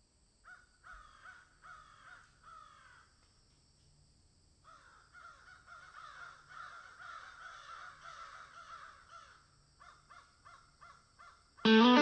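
Birds calling in a series of short, falling calls, then a denser run of many overlapping calls, then a few more short calls. Guitar music comes in just at the end.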